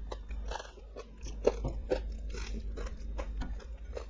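Close-miked chewing and wet mouth sounds of someone eating rice and curry: a string of short smacks and clicks, one louder about a second and a half in.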